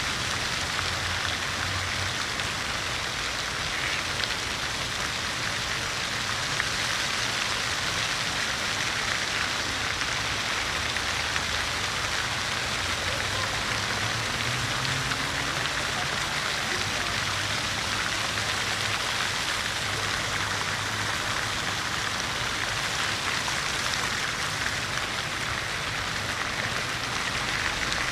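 City fountain: water splashing steadily and evenly into a basin, with a faint low hum underneath.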